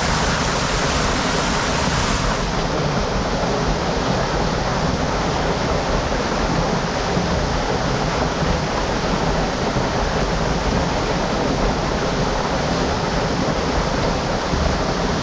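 Steady rush of hot spring water pouring and splashing into a pool.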